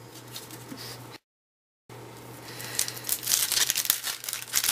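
Foil wrapper of a baseball card pack crinkling and tearing as the pack is opened, a dense run of crackles building up in the second half, after a brief dropout to dead silence.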